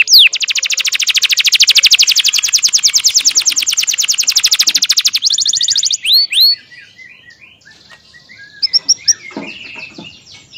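A songbird singing. It gives a few sharp downward-slurred whistles, then a long, fast, even trill lasting about five seconds, then two more slurred whistles. Softer, varied chirps follow.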